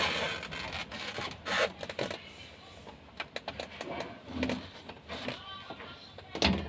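Scattered clicks and light knocks of refrigerator parts and a cover being handled during reassembly, with a dull thump about four and a half seconds in and a louder one near the end.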